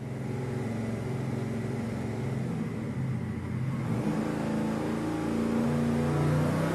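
428 cubic inch twin-turbo Ford V8 running on an engine dyno, exhausting through Dynomax 3-inch Bullet straight-through mufflers. Its note steps up in pitch and grows louder about four seconds in and again near the end as the revs are raised.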